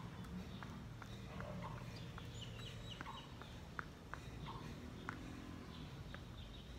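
Faint outdoor ambience with birds calling in short, repeated notes about every second and a half, and scattered light taps.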